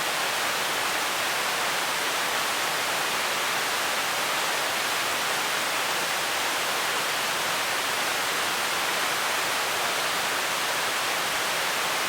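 Steady rush of a waterfall and fast-flowing river in flood, an even unbroken noise.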